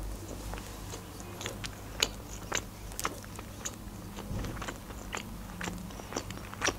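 Close-miked chewing of a bite of a breaded fried-chicken burger: irregular crunches and wet mouth clicks, the loudest about two seconds in and again near the end.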